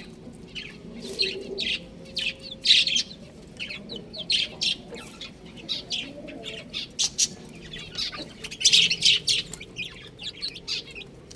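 Chicks chirping: many short, high-pitched peeps coming in quick, overlapping runs, loudest about three seconds in and again around nine seconds.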